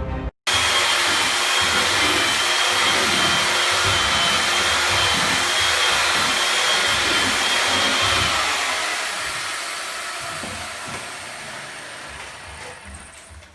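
An electric motor running loudly with a hiss and a steady high whine. The whine stops about eight seconds in and the running sound fades gradually over the last few seconds.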